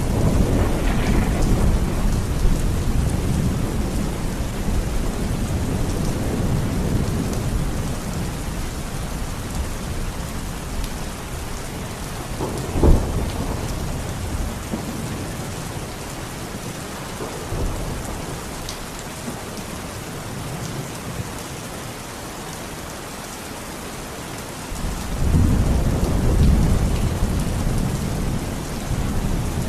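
Heavy rain falling steadily through a thunderstorm. A low rumble of thunder rolls away over the first several seconds, a sharp thunderclap cracks a little before halfway, and another rumble builds near the end.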